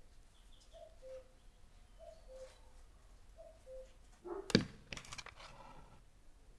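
A bird calls over and over, each call two notes, a higher one falling to a lower one, about once every second and a quarter. About four and a half seconds in there is a loud clatter of metal kitchenware being handled, with a short ring.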